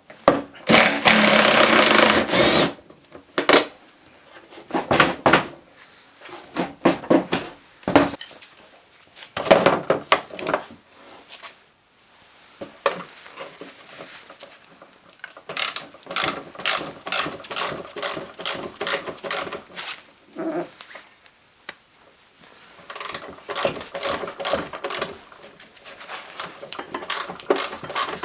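Workshop tool noise during the teardown of an ATV: a power tool runs for about two seconds near the start, followed by scattered metal clicks, knocks and runs of rapid clicking from hand tools and parts.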